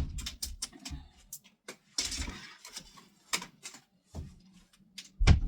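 Handling noise: scattered knocks and clicks, a brief rustle about two seconds in, and a loud thump near the end.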